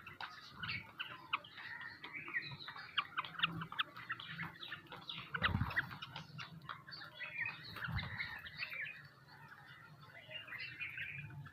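Sparrows and mynas chirping and chattering together in a dense stream of short, quick calls. A couple of low thuds come through, the loudest about halfway through.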